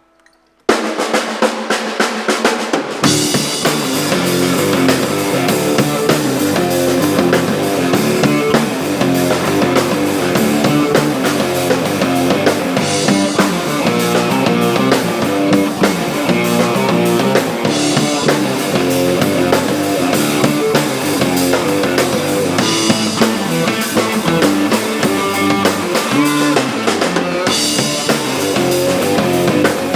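Rock band playing at rehearsal, led by a drum kit with kick, snare and rimshots. The music starts just under a second in without any low end, and the full band with bass comes in about three seconds in.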